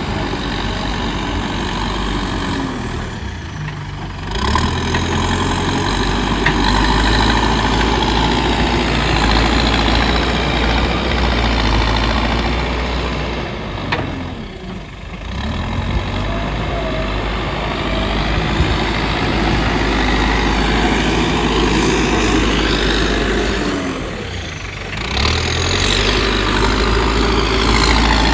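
Diesel engine of a JCB digger running and working its hydraulics while loading a tipper truck. It holds a steady working note, easing off briefly three times, about 4, 15 and 24 seconds in, and picking up again each time.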